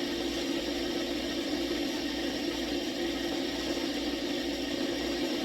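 A kitchen appliance running with a steady whir and a low hum.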